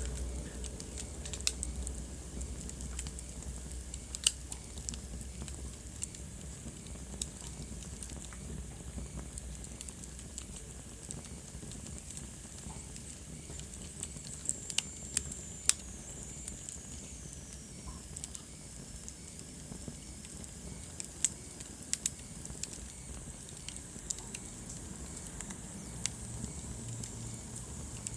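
Wood fire crackling in a fireplace: a steady soft hiss with irregular sharp pops, a few of them louder. A faint high whistle slides down in pitch about halfway through.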